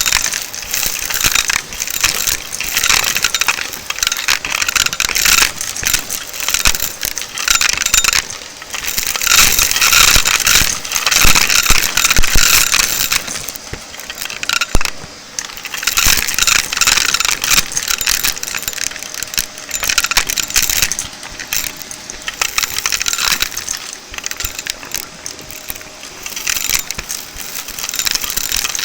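Shark vacuum cleaner sucking up crunchy debris: a dense crackling rattle of bits striking the nozzle and tube, swelling and easing every few seconds, over a faint steady motor hum.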